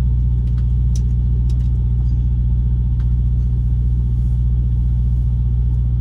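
A truck's engine running steadily, a constant low hum heard inside the cab, with a few faint light ticks over it.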